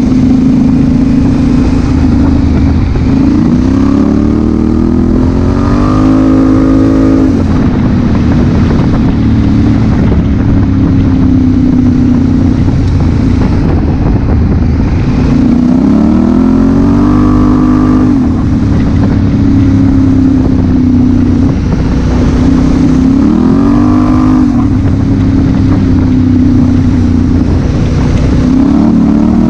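Honda Africa Twin CRF1000L's parallel-twin engine under way, running at a steady pitch and rising four times under throttle for a few seconds before dropping back. Heavy wind rush on the microphone runs under it.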